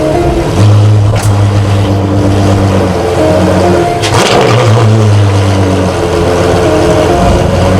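De Tomaso P72's engine running loudly at a fairly steady pitch, with small shifts in engine speed, at low road speed. A brief loud rush of noise cuts in about four seconds in.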